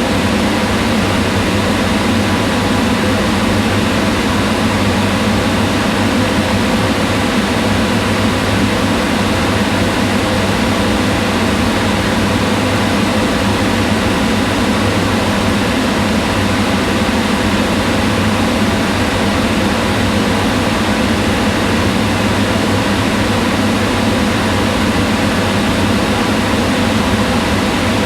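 Kitchen range hood exhaust fan running steadily: an even whir of rushing air with a low motor hum underneath.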